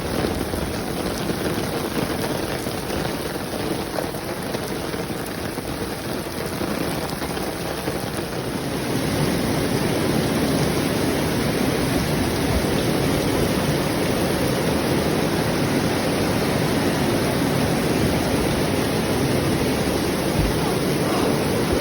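Steady rain, a dense even hiss that grows louder about nine seconds in and holds there.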